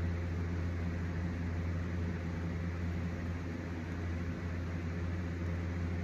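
Steady low mechanical hum with a hiss over it, like a running motor or fan, holding at an even level.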